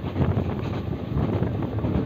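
Passenger train running at speed, heard from a coach window: a steady low rumble from the wheels on the track, with wind buffeting the microphone.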